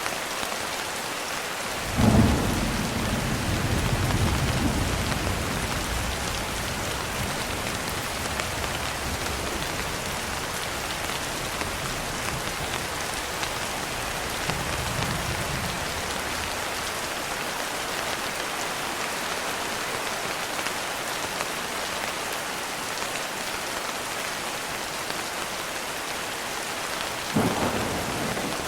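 Steady rain with thunder: a sharp clap about two seconds in, followed by a long low rumble, a fainter rumble midway, and another clap near the end.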